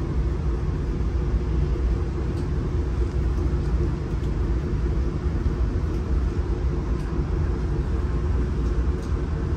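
Steady rumble of a moving passenger train heard inside a stainless steel Skyline dome car: wheels running on the rails and the car's running noise, heaviest in the low end.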